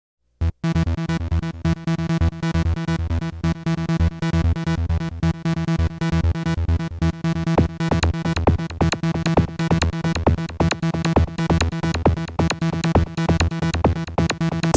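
Techno music made on a Korg DS-10 synthesizer: a repeating, pulsing synth bass line with steady keyboard notes over it, starting about half a second in.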